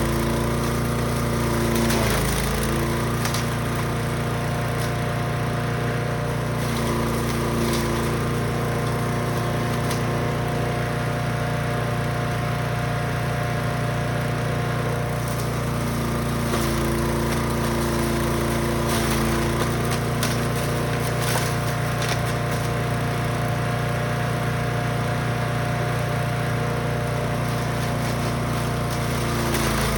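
Brush Master 3-in-1 chipper/shredder's gasoline engine running steadily at speed, its pitch dipping briefly about two seconds in and again near the end, with scattered short cracks and rattles of material going through.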